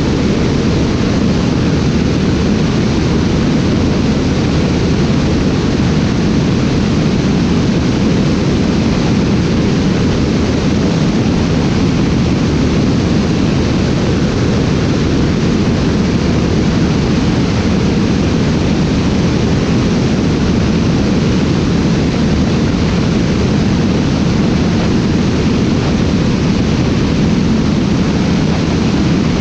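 Aircraft engine and rushing air as a steady, loud, unchanging drone, heaviest in the low range, from a camera flying aboard the aircraft.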